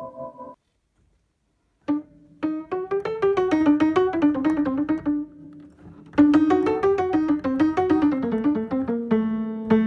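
Prepared upright piano with a felt strip between the strings, played in quick rising and falling runs of notes. There is a brief lull midway, and the notes settle into held chords near the end.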